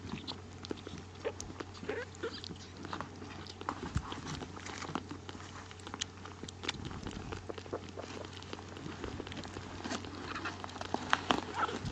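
Kitten lapping milk: a run of soft, irregular licking clicks.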